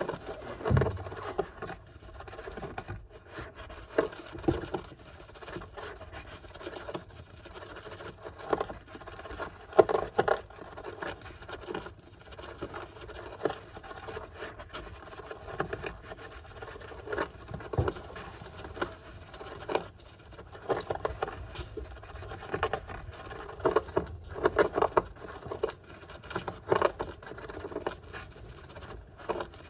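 Golden hamster digging and scratching in bathing sand, with irregular bursts of scratchy pattering.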